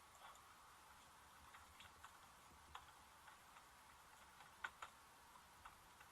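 Near silence with faint background hiss and a dozen small, irregular clicks, the loudest pair a little past four and a half seconds in.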